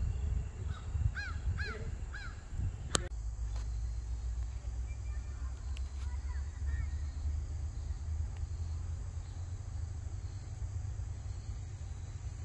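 A bird gives three short, arched calls about a second in, with a sharp click just after, over a steady low rumble.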